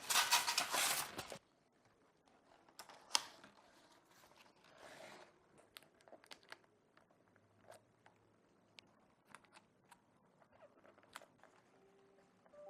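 Packaging crinkling and tearing for about a second and a half. Then come scattered faint clicks and taps of handling, with one sharper tick about three seconds in.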